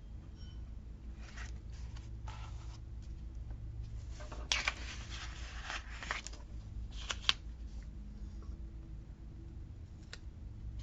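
Paper sticker sheets and planner pages rustling in short spells as they are handled, the loudest spell about halfway through, with a sharp tick shortly after.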